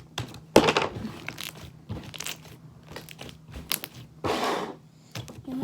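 Soft slime, thinned with a lot of lotion, being squished and stretched by hand, making irregular short crackly squishing sounds, with a longer one about four seconds in.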